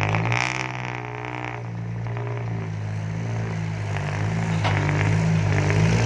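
Heavy diesel engine running at low revs with a slightly wavering pitch, getting louder near the end.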